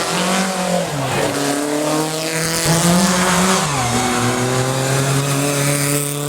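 Race car engine pulling hard under full throttle, its pitch climbing steadily and dropping sharply at two upshifts, about one second in and again near four seconds.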